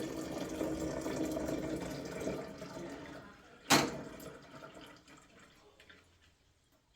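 Running water that fades out over about three seconds, then a single sharp knock and a few faint clicks.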